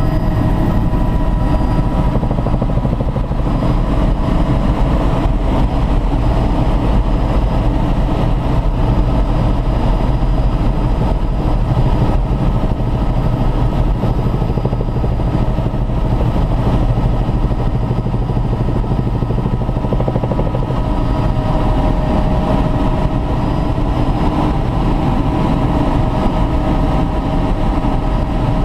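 Helicopter in flight, heard from inside the cabin: a loud, steady drone of engine and rotor with a few steady whining tones above it.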